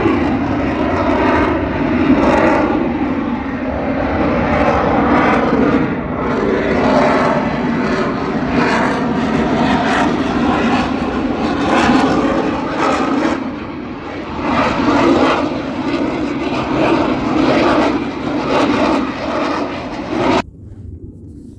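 Airshow aircraft flying past: a loud, sustained engine roar whose tone keeps shifting as it passes, cutting off suddenly near the end.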